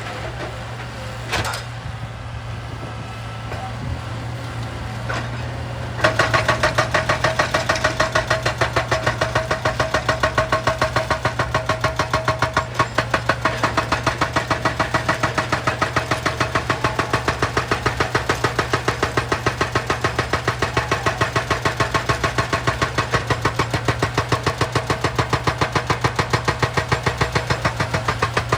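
Excavator-mounted hydraulic breaker hammer pounding rock in a rapid, even rhythm of about four blows a second, starting suddenly about six seconds in. Before that, only the excavator's diesel engine running steadily, with a couple of single clicks.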